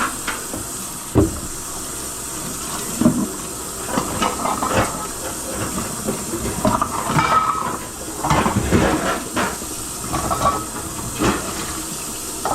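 Kitchen tap running steadily into a sink, with dishes and utensils knocking and clattering against each other at intervals.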